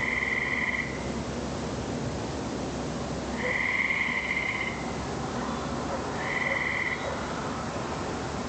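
A frog calling with a high-pitched trill about a second long, repeated every two to three seconds, over a steady hiss.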